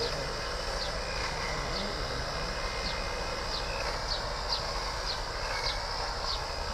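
A small bird repeating a short, high, falling chirp about once a second, over a steady background hiss and low rumble.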